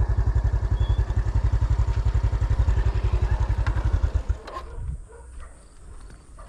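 A small engine running with a fast, even low thumping, which stops abruptly about four seconds in, leaving quieter outdoor sound.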